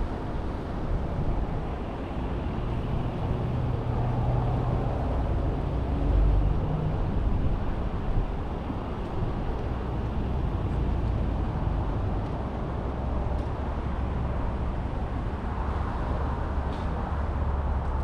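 Car on the move: steady road and engine rumble with some wind noise, the engine note shifting a little a few seconds in.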